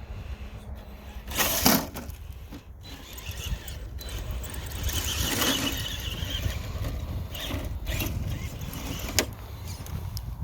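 An RC crawler truck's brushless electric motor and drivetrain whining in uneven throttle bursts as it climbs over dirt. A short sharp rushing burst comes about one and a half seconds in, and a couple of clicks near the end.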